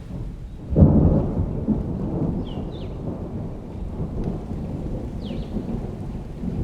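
Summer thunderstorm: a thunderclap breaks suddenly about a second in and rolls on as a long low rumble, over steady rain.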